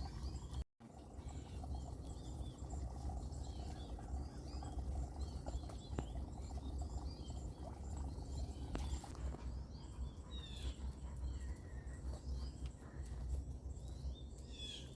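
Small birds chirping repeatedly in quick short calls, over a steady low background rumble.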